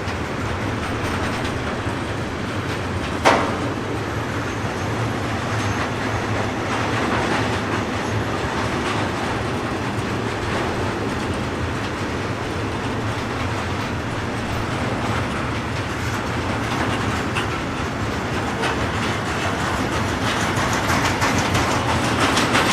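Freight train of tank wagons rolling past, wheels clattering steadily over the rail joints, with one sharp bang about three seconds in.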